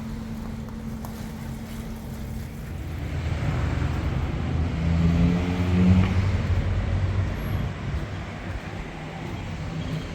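A motor vehicle engine passing close by over a steady traffic rumble, growing louder, loudest about six seconds in, then fading away.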